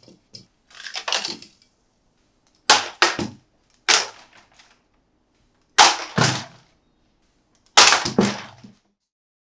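Toy packaging being handled, making about six sharp crackling bursts spaced a second or two apart.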